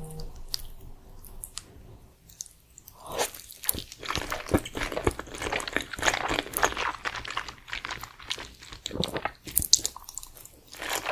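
Close-miked mouth sounds of eating spicy instant noodles: noodles drawn into the mouth and chewed, with wet smacks and clicks. Quieter at first, growing dense and busy about three seconds in.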